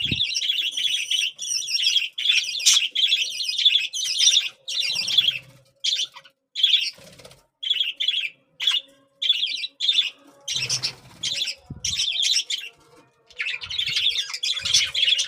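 Budgerigar chicks giving harsh, buzzy begging calls at feeding time, in repeated bursts, some held for a second or two and others short, with a few soft low thuds in between.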